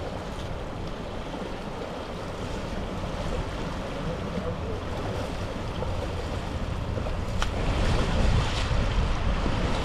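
A steady rushing noise, heaviest in the low end, that swells about eight seconds in, with one sharp click shortly before.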